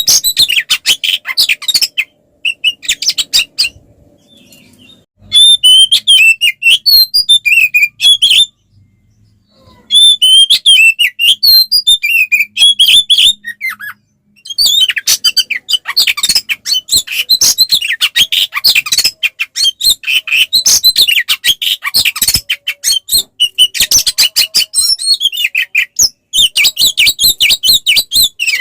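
Oriental magpie-robin (kacer) singing a loud, rapid, varied song of chirped notes in long phrases broken by a few short pauses. This is the bird's full-voiced fighting song, the kind used to provoke other kacer into answering.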